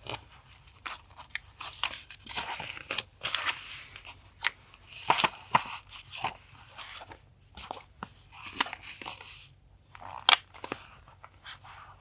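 Paper being handled for collage journaling: irregular crisp rustles, crinkles and small taps of paper and stationery on a desk.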